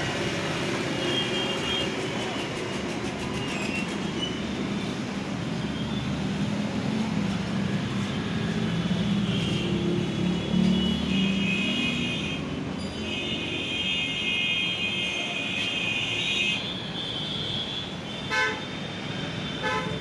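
Road traffic and a running engine, with vehicle horns sounding several times, the longest honk in the second half, and a short sharp knock near the end.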